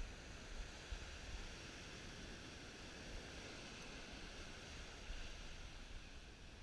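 Faint, steady wash of ocean surf and wind.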